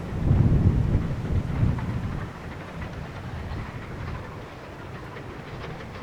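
A steam-hauled train running by: a deep rumble, loudest in the first two seconds, then settling to a steadier, lower rumble.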